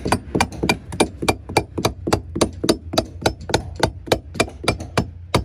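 Hammer striking metal or wood in a fast, even rhythm, about five strikes a second: driving hemp caulking into the seams of a wooden boat hull.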